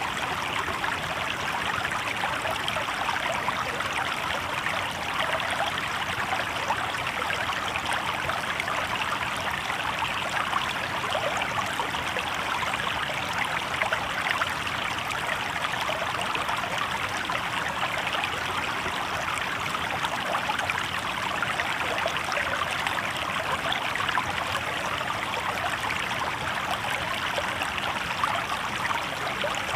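River water babbling steadily over rocks.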